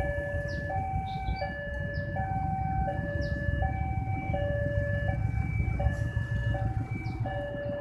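Railway level-crossing alarm sounding a two-tone electronic warning that switches between a higher and a lower note about every 0.7 s, over a low rumble.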